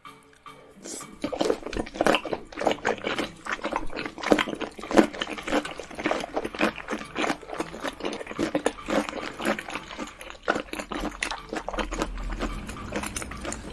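Close-miked eating sounds: wet, crunchy chewing and smacking of green papaya salad (som tam), a quick run of clicks and crackles starting about a second in.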